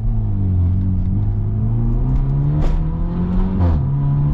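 Straight-piped, Stage 2+ tuned BMW F30 exhaust under acceleration. The engine note climbs for about two and a half seconds, then gives a sharp crack and drops in pitch, and cracks and drops again about a second later as the gears change.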